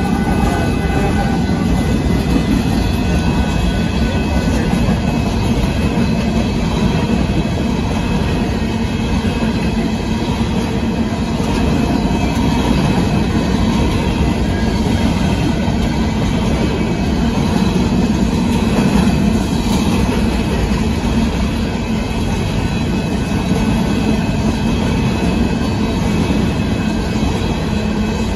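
Union Pacific grain train's covered hopper cars rolling past at close range, a steady loud rumble of steel wheels on the rails with clickety-clack from the rail joints.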